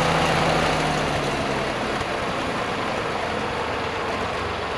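An engine idling, with a steady low throb that becomes rougher about a second and a half in.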